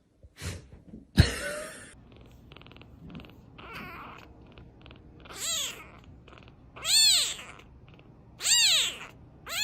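A domestic cat meowing four times, about every second and a half, each meow rising and then falling in pitch. A sharp knock comes about a second in.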